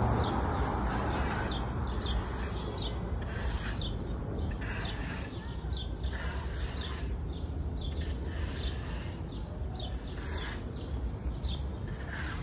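Small birds chirping outdoors: short, high, down-slurred chirps repeating about twice a second over a steady low rumble.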